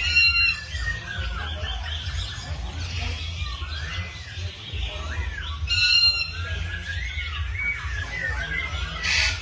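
Many birds calling and chirping together in quick, overlapping short calls, with a louder harsh squawking call twice, near the start and about six seconds in, over a steady low rumble.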